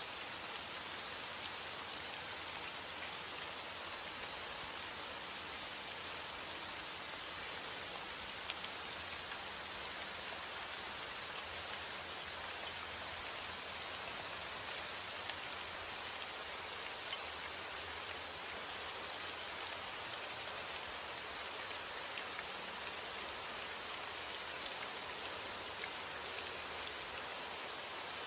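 Steady heavy rain falling, an even hiss with many fine drop ticks and no change in intensity.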